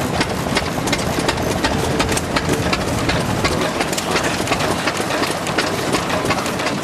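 Vintage hit-and-miss stationary engines running, with a steady clatter of rapid, irregular clicks and knocks.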